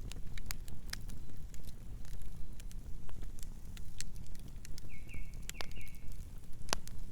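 Campfire burning: a steady low rumble with frequent sharp crackles and pops of burning wood, one louder pop near the end.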